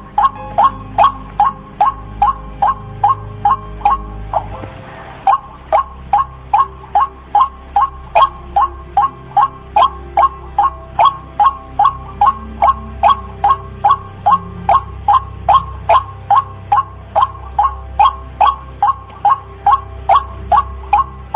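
White-breasted waterhen (ruak-ruak) calling: a loud, monotonous call note repeated about two and a half times a second, with a brief break about four seconds in. It is a recorded call played as a lure to trap the birds.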